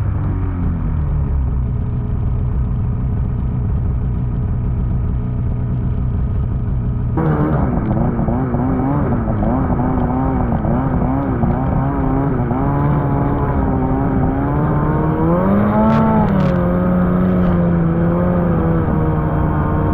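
Two-stroke snowmobile engine running under throttle. It holds a steady low note, changes abruptly about a third of the way in, then wavers up and down with the throttle. It rises briefly near the end before settling.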